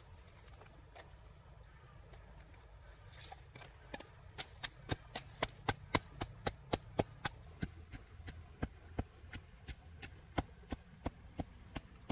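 Knife chopping on a cutting board in quick, even strokes, starting about four seconds in: about four a second at first, slowing a little toward the end.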